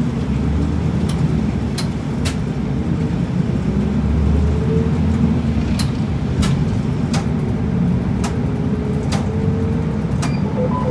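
Route bus under way, heard from inside the cabin: the engine's steady low drone with a faint whine, and sharp irregular clicks and rattles from the cabin about once a second.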